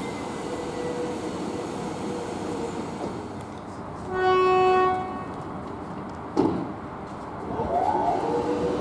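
X'Trapolis electric train at the platform: a steady rumble, broken about four seconds in by one short horn blast on a single note lasting under a second. A sharp clack follows a couple of seconds later, then a rising whine near the end.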